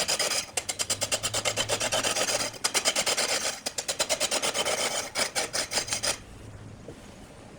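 Wood being cut on a lathe, a turning tool scraping the spinning blank in rapid, even rhythmic strokes that stop about six seconds in.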